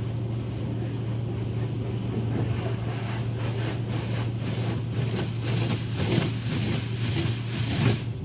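Automatic car wash's high-pressure water jets spraying against the car body, heard from inside the car, over a steady low hum from the wash machinery. About three seconds in the spray starts beating against the car in quick pulses, then the sound cuts off suddenly at the end.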